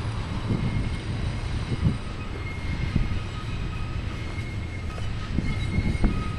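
BNSF freight train rolling past with a steady low rumble and occasional knocks, and thin high wheel squeal coming in about two seconds in.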